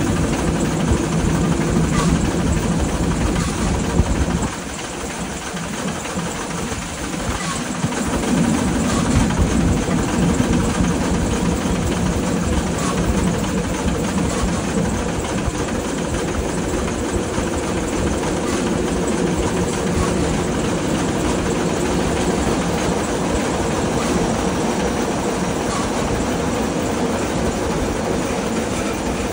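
Steam train running along the track: a steady rumble and rattle of wheels on rails. It turns quieter about four seconds in and builds back up a few seconds later.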